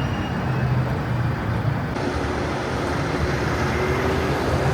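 Steady road-vehicle noise with a low engine hum, as of city traffic or a ride in a motor vehicle.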